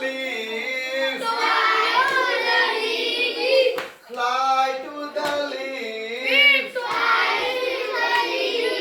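Children singing a simple repetitive action song together, with one sharp hit, like a clap, just before four seconds in.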